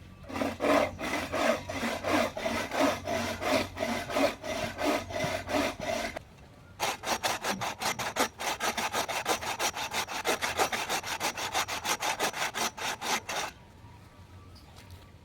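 Hand saw cutting wood in steady back-and-forth strokes. It pauses about six seconds in, then resumes at a quicker pace for about seven seconds before stopping.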